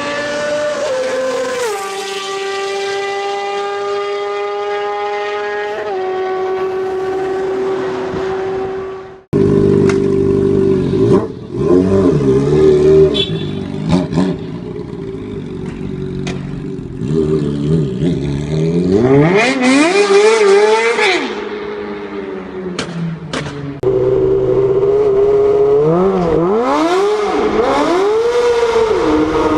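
Motorcycle engine running, first at a steady pitch that drops a step twice, then after a sudden cut about nine seconds in, revving up and down in repeated rising and falling sweeps.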